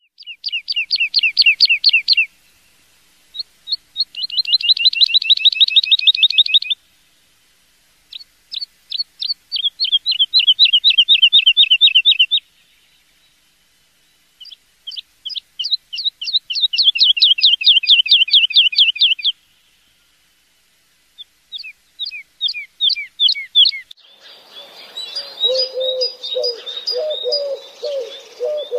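A songbird singing phrases of fast, evenly repeated high notes, each phrase two to four seconds long with short pauses between. Near the end the song gives way to denser birdsong over a lower, repeated call.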